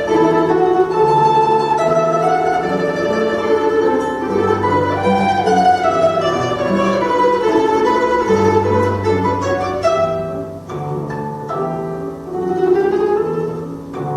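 A duet playing a Russian folk-song arrangement: a plucked string instrument carries the melody over a low sustained accompaniment, the music growing thinner and sparser about ten seconds in.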